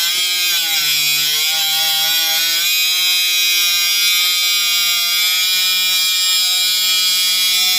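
Budget cordless angle grinder cutting through a thick metal bar with a cut-off wheel: a steady high grinding hiss over the motor's whine. The whine drops in pitch under load about half a second in and climbs back up a couple of seconds later.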